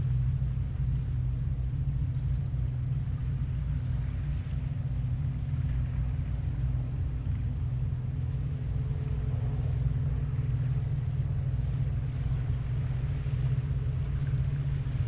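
Low, steady rumble of gentle ocean surf at low tide, with no distinct breaking crashes.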